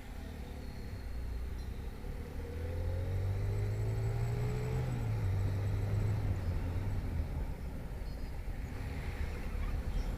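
Motorcycle engine running under way, its pitch rising for about three seconds and dropping about five seconds in, as at a gear change, over road noise.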